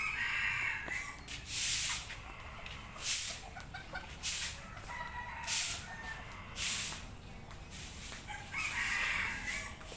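A domestic rooster crowing twice, once at the start and again near the end, with several short hissing bursts of noise between the crows.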